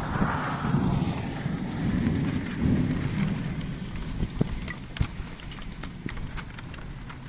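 Heavy rain pouring in strong wind, the wind buffeting the microphone with a low rumble that eases after about three seconds, while many sharp ticks of drops strike nearby surfaces.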